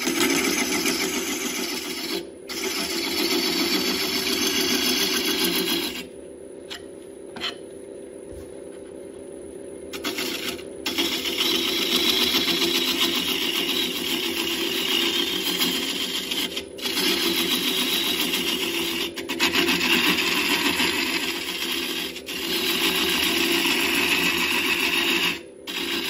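Wood lathe spinning a burl blank while a turning tool cuts it, with a rapid chattering scrape over the steady hum of the spinning work. The cutting stops for a few seconds about a quarter of the way through and resumes, with a few shorter breaks later on.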